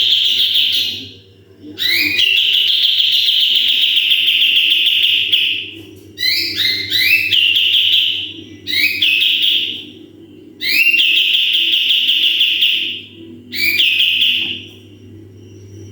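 Kapas tembak bulbul singing its 'tembakan' phrases, about five of them. Each phrase opens with a few quick notes stepping upward and runs into a long, held, high buzzy note, the longest lasting several seconds. A steady low hum runs underneath.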